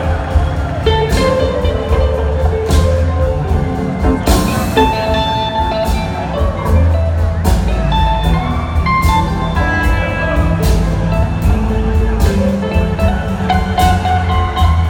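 A live blues-rock band playing: a lead electric guitar line over drums and bass.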